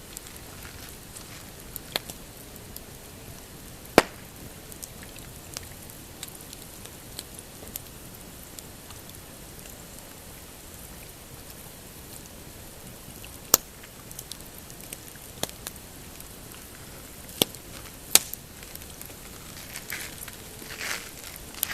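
Pine campfire crackling, with a steady low hiss and irregular sharp pops, the loudest about four seconds in and a cluster near the three-quarter mark. Softer swishing sounds come in near the end.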